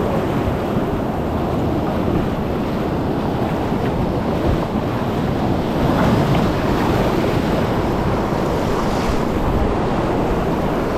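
River water rushing and splashing around a packraft running rapids, with wind buffeting the microphone. It is a steady, dense rush that swells slightly about halfway through.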